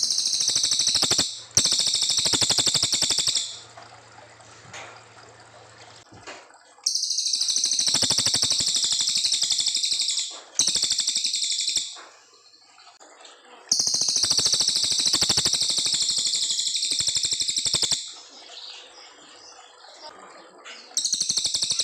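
Cililin coklat songbird singing in long, very rapid high-pitched runs, each burst lasting one to four seconds with short pauses between. These are the long 'shooting' song bouts kept as training song for murai batu.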